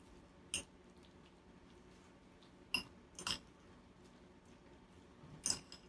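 A utensil knocking and scraping against a mixing bowl four times, short clinks with quiet between, as chicken salad is tossed to coat it in mayonnaise dressing.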